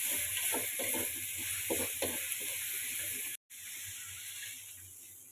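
Food frying in hot oil in a pan, a steady loud sizzle with a few stirring scrapes. It cuts off abruptly about three and a half seconds in, then comes back quieter and fades.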